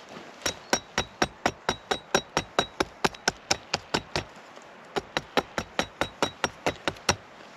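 Rapid, even hammering blows, about four a second, in two runs with a short pause between them. Each blow has a faint metallic ring.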